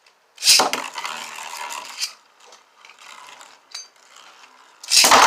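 Two Beyblades launched about half a second in, the launchers ratcheting as they are pulled. The spinning tops then rattle and scrape around the stadium, and there is a loud burst of hard hits near the end.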